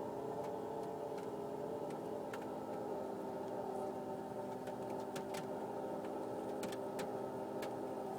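1999 Mitsubishi Pajero iO engine running with a steady whirring noise of several held tones, with irregular light ticks over it. The owners first took the noise for a belt; mechanics have put it down variously to a worn alternator bearing, a failing air-conditioning compressor or a failing water pump.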